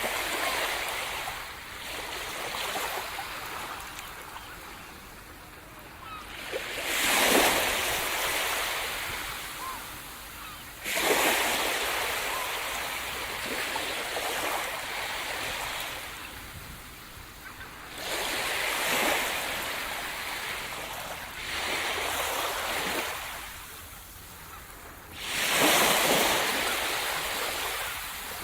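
Sea surf breaking on the shore: each wave rises to a loud rush of white noise and fades as it washes back, with a new wave breaking every four to seven seconds.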